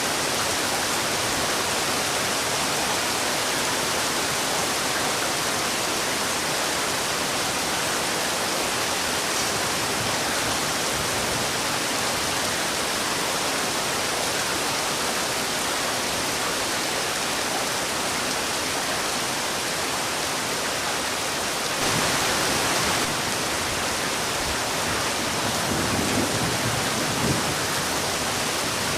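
Heavy rain falling steadily, a dense even hiss with a brief louder gust about three-quarters of the way through.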